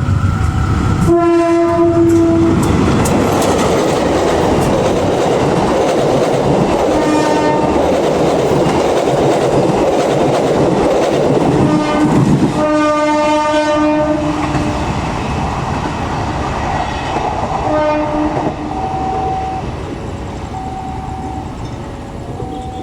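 Dhoho passenger train, a diesel-hauled train, passing with its wheels clattering over the rails. The locomotive horn sounds four times: short about a second in, short again near the middle, one long blast a little later, and a last short one. A level-crossing warning bell alternates between two tones at the start and again from about four seconds before the end.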